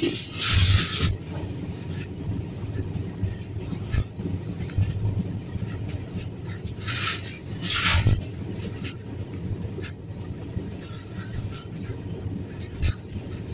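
Train running over a rail bridge: a steady rumble of wheels on the rails, with two short bursts of rushing hiss, one at the start and one about seven seconds in.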